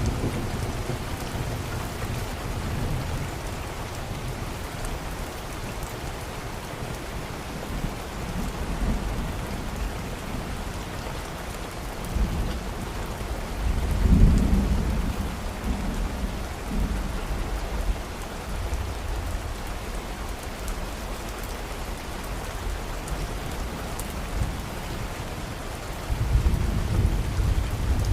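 Steady rain falling, with low rolls of thunder: one swells about halfway through and another builds near the end.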